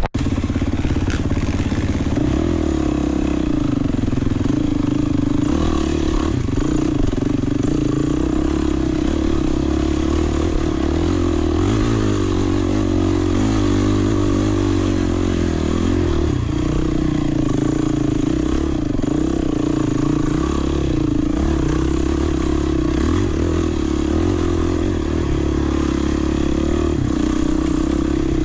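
Off-road trail motorcycle engine running steadily under way, its pitch wavering slightly with the throttle.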